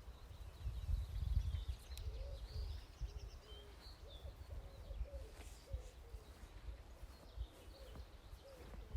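Birds calling outdoors: high chirps throughout and a series of short, low repeated calls from about two seconds in, over a low rumble of wind on the microphone that is strongest in the first two seconds.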